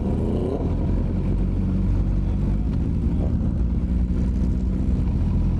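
Motorcycle engine running steadily under way, a low continuous drone.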